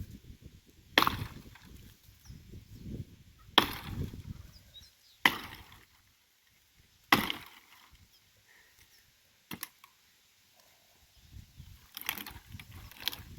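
Firewood being chopped by hand: sharp, single blows of a blade biting into wood, about every two seconds, with a quicker flurry of lighter strikes near the end.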